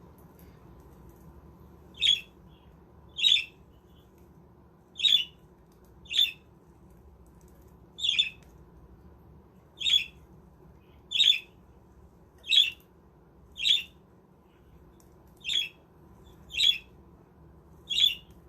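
Budgerigar giving a dozen short, sharp squawking calls, one every second or so, starting about two seconds in.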